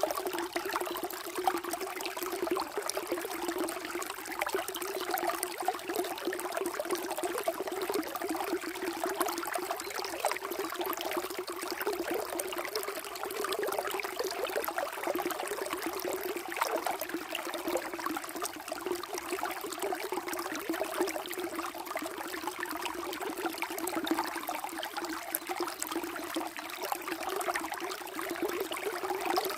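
Water flowing and trickling steadily, a continuous even rush.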